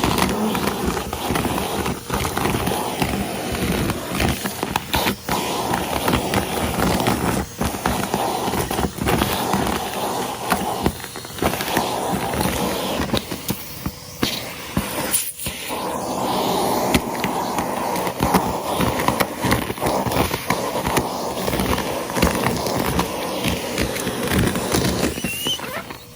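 Numatic Henry cylinder vacuum cleaner running steadily while sucking up crunchy debris, which rattles and clicks through the hose and wand.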